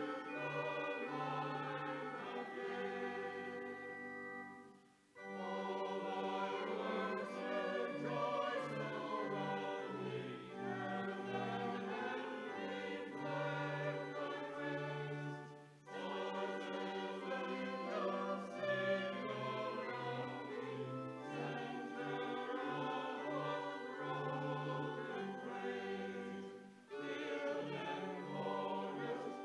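Church music at the close of a service: sustained chords over a steady bass line, in phrases about ten seconds long, each ending in a brief pause.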